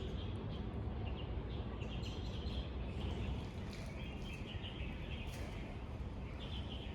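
Small birds chirping in scattered clusters of short high calls over a steady low city hum.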